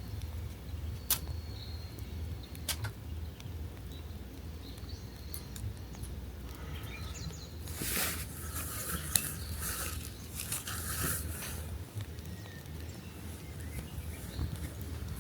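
Campfire cooking: scattered sharp ticks and clicks, with a few seconds of rustling and scraping about halfway through.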